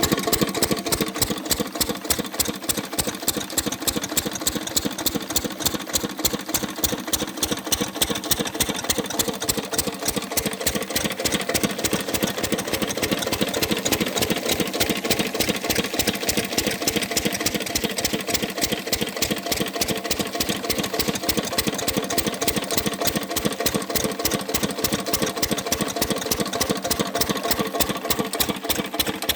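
Engine running steadily with an even, fast chugging beat of about six or seven strokes a second.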